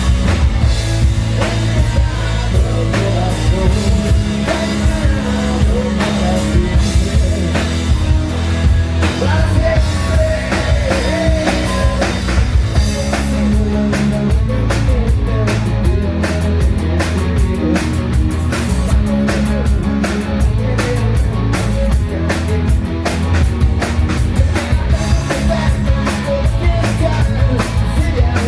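Hard rock band playing live: drum kit keeping a steady beat under bass and electric guitars, with a lead vocal singing over them.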